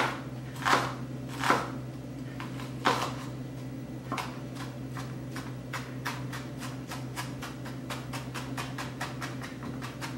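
Kitchen knife mincing a shallot on a cutting board: a few separate cuts, then from about four seconds in a quick, even run of chops at about five a second. A steady low hum sits under it.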